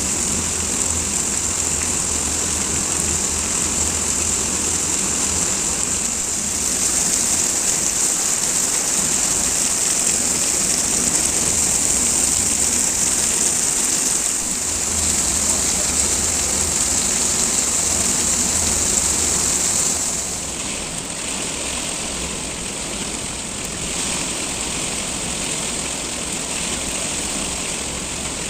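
Heavy rain falling steadily, a dense even hiss that gets a little quieter about twenty seconds in.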